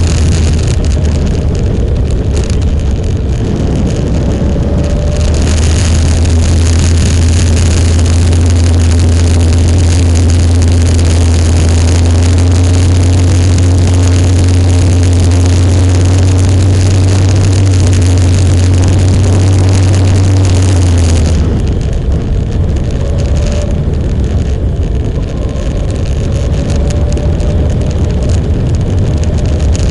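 Motorcycle running under way with a heavy low rumble on the microphone; the engine note climbs slowly, then eases off about two-thirds of the way through.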